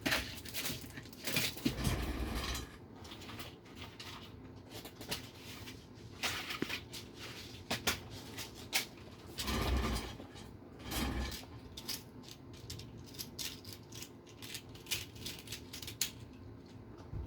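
Scattered small clicks and taps with a few brief rustles: hands handling small metal parts and tools while fitting set screws into an RC car chassis.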